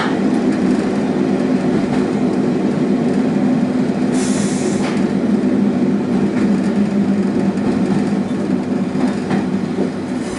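Sanriku Railway diesel railcar running along the line, heard from inside the car: a steady engine and rail drone, with a brief hiss about four seconds in and a few faint clicks from the wheels on the track.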